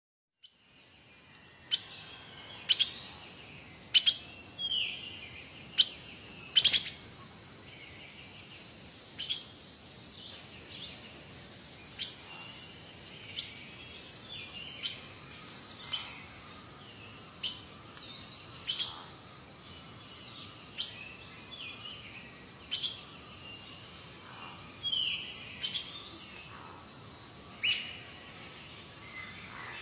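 Birds chirping: short sharp chirps every second or two, with now and then a longer falling whistle.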